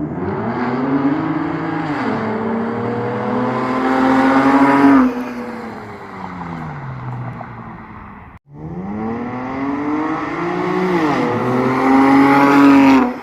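Straight-piped V6 Camaro exhaust under hard acceleration, heard twice: the engine note climbs, dips briefly at an upshift, climbs again and drops sharply when the throttle is let off, then winds down.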